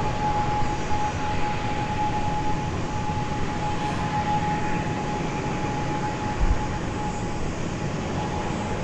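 ATR 72-600 turboprop airliner's engines running, a steady whine holding one pitch over a broad rumble.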